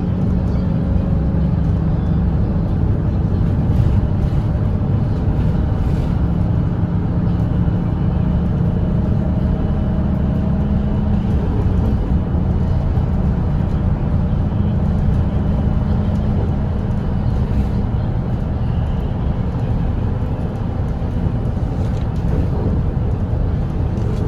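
Volvo B8RLE double-decker bus's diesel engine running steadily at highway cruising speed, a continuous low drone mixed with road and tyre noise.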